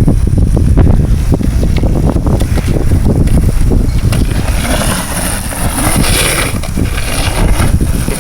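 Wind buffeting the microphone over the running engine of a small dirt bike. The engine comes through more clearly about halfway through.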